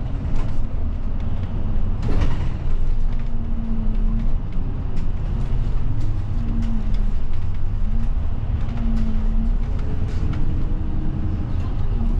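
Route bus running, heard inside the passenger cabin: a steady low rumble of engine and road noise with an engine hum that rises and falls in pitch, and a brief knock or rattle about two seconds in.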